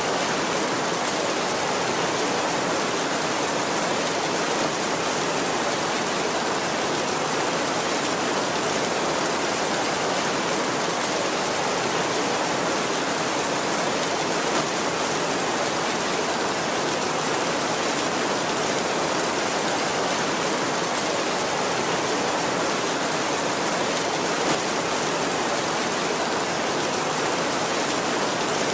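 Heavy rain falling steadily on a tin roof, an even unbroken hiss with an occasional sharper drop tick about every ten seconds.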